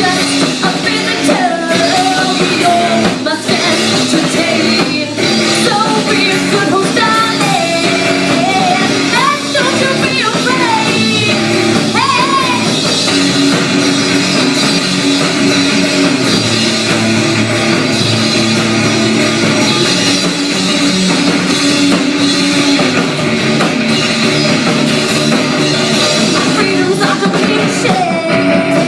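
Live rock band playing loudly, with a voice singing over the first dozen seconds and again near the end while the instruments carry on in between.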